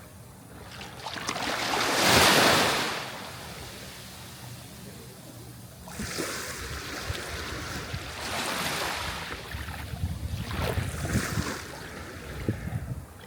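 Sea waves breaking and washing up the shore, each one swelling and then fading away. The biggest wave comes about two seconds in, followed by several smaller ones.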